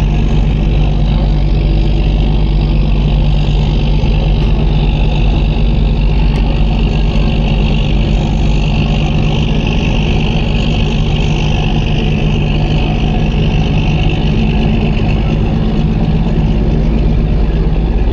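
Passenger ferry's engine running with a steady low hum, under a constant wash of hiss.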